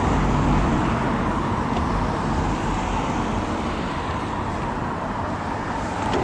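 Steady road noise while riding an electric mountain bike along a busy road: wind buffeting the chest-mounted microphone, tyres on tarmac and traffic.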